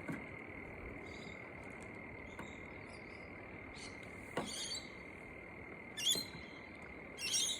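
Several short, high bird chirps about four, six and seven seconds in, over a steady, high-pitched background trill that does not change.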